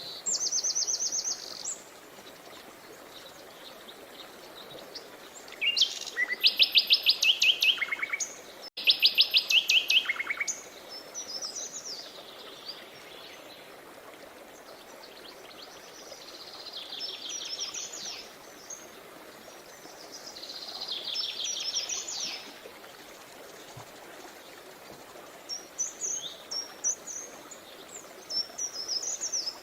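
Songbirds singing in fast trilled phrases, each a quick run of evenly repeated notes. The loudest two come about six and nine seconds in, with shorter trills later and scattered chirps near the end, all over a steady low rush of flowing river water.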